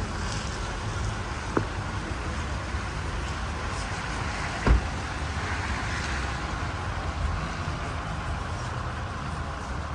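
Steady rumble of city street traffic, with a short click about one and a half seconds in and a louder thump near the middle.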